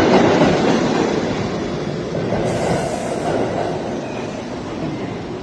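New York City subway train running along the rails through the station: a dense rumble of wheels on track, loudest near the start and slowly easing off.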